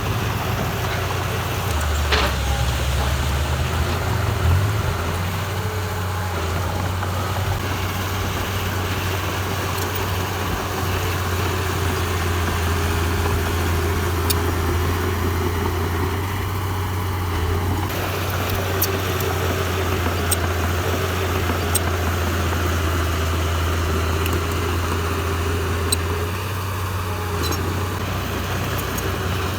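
Diesel engine of a heavy earthmoving machine running steadily at a low, even note, shifting pitch briefly about two seconds in, with a few sharp clicks over it.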